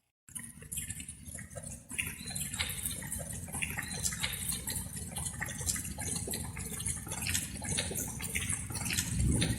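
Light rain with many separate drops dripping over a low, steady rumble. It cuts in abruptly after a split-second of silence and gets louder about two seconds in.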